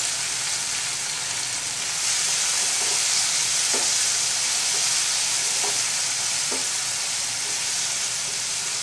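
Onion, capsicum and ginger sizzling in hot oil and sauce in a frying pan as they are stirred with a wooden spatula: a steady sizzle with a few faint scrapes.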